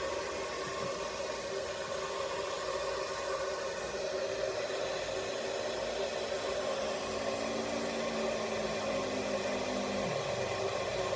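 Kitfort KT-6121 electric kettle heating water, a steady rushing hiss.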